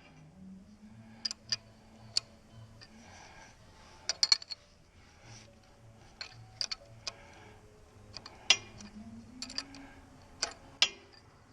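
Ratchet wrench on an extension clicking in short, irregular runs of ticks as bolts are snugged up.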